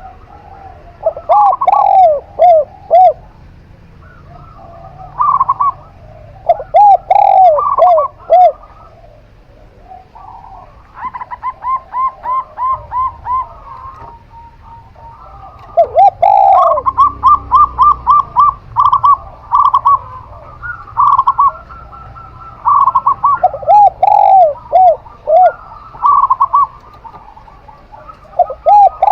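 Zebra dove (perkutut) and spotted dove (tekukur) cooing in turns. Short phrases of a few arching coos come every few seconds, and in the middle there are longer quick runs of many short notes.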